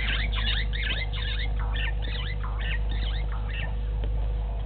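A bird calling a quick series of short, downward-sliding notes, about three a second, that thin out and stop about three and a half seconds in.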